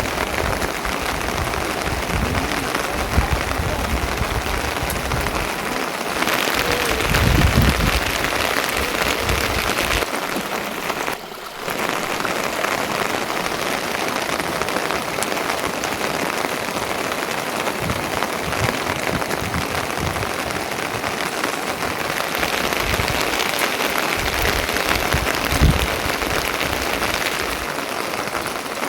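Steady rain falling, an even hiss with occasional low rumbles and a brief dip about eleven seconds in.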